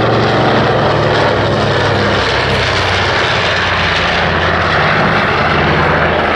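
An aircraft droning loudly past, steady throughout, with its low engine note dropping slightly in pitch about halfway through as it goes by.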